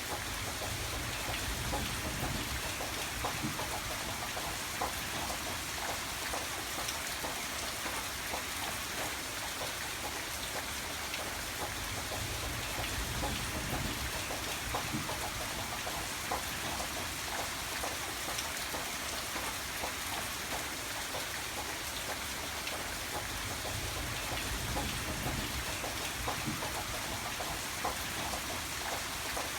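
Steady rain with individual drops pattering on a surface, over a low rumble that swells gently now and then.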